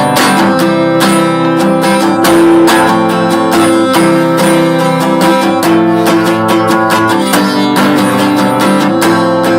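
Instrumental stretch of a song: a guitar strumming chords in a steady rhythm, with no singing.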